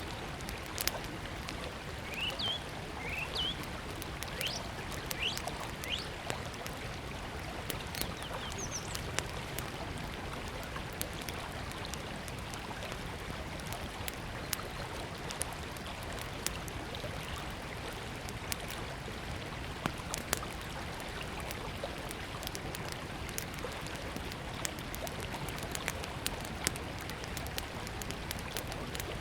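A river flowing steadily, with a small wood campfire crackling and popping throughout. A bird gives a few short chirps in the first ten seconds or so.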